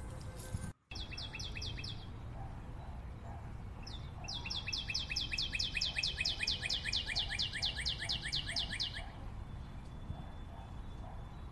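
Bird song: a songbird repeating quick, sharp downward chirps, about five a second, in a short run near the start and a longer run of several seconds in the middle, over a low steady background rumble. The sound cuts out for a split second under a second in.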